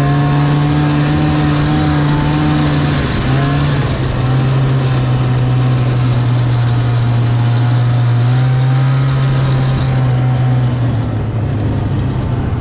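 Snowmobile engine running at high, steady revs, dipping briefly about three seconds in and easing off near the end.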